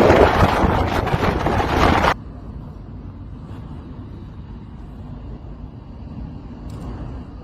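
Strong dust-storm wind buffeting the microphone in a loud, rushing roar that cuts off abruptly about two seconds in, giving way to a much quieter, steady low rumble.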